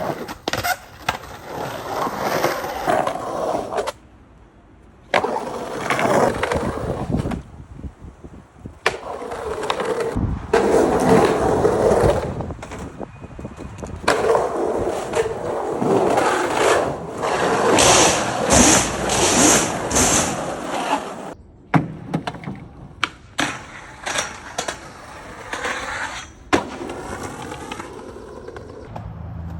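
Skateboards rolling on hard ground, with board clacks and landing impacts. The sound breaks off and changes abruptly several times.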